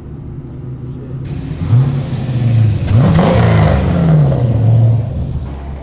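A car engine revving. It picks up and holds, then revs harder about halfway through, with loud exhaust noise, and winds down slowly.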